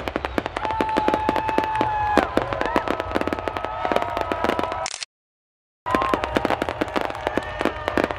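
Fireworks crackling rapidly, many sharp cracks a second, with long high whistling tones running over them. The sound cuts out completely for under a second midway.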